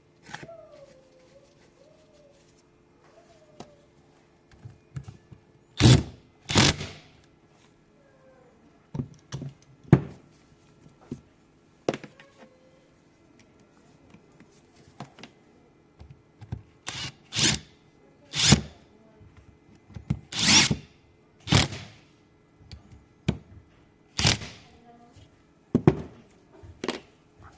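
Irregular sharp knocks and clanks of hand tools and metal parts while a car starter motor is being worked on, several coming in quick pairs.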